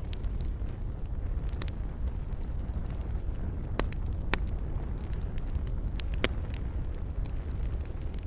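Wood fire crackling in a fireplace: a steady low rumble of flames with irregular sharp pops and snaps, a few louder ones in the middle.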